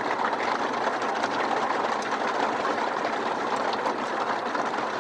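Heavy rain with hail coming down, a steady dense hiss with many fine rapid ticks.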